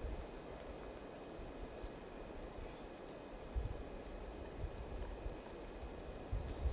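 Small songbirds at a winter feeder giving short, high call notes, about half a dozen scattered chips, over a low outdoor background with a few low rumbles.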